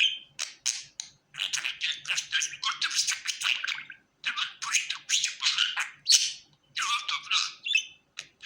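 Pet budgerigar warbling: fast, high-pitched chatter in runs of one to two seconds, broken by brief pauses.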